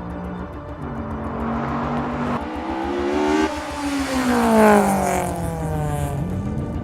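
Vehicle engine sound effect of a chase: a steady engine note steps up in pitch, then sinks slowly over about three seconds and rises again near the end.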